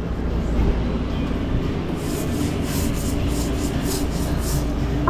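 Rhythmic scraping strokes, about three a second, starting about two seconds in and stopping near the end, over a steady low rumble of food-truck kitchen equipment.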